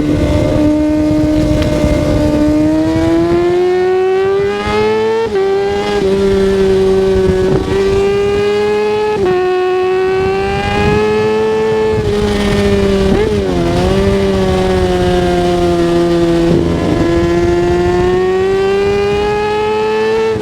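Kawasaki ZX-6R 636's inline-four engine running hard under way, its note climbing steadily and then dropping sharply about five times, with one brief dip and recovery midway.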